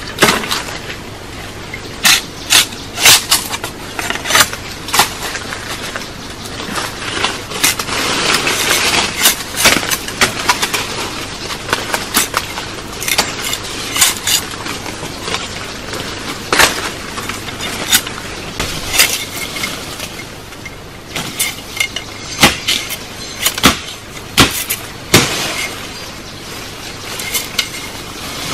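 Irregular sharp chops and cracks of wood being cut and broken by hand, about one or two a second, over a steady hiss.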